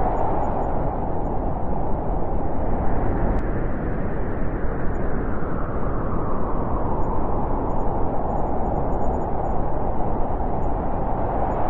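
Wind blowing in a steady low rush, easing in the middle and swelling again near the end.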